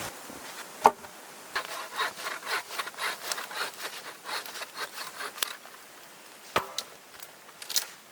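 Hand saw cutting wood in quick back-and-forth strokes, about three a second, for several seconds. A sharp knock comes just before the sawing and another after it stops.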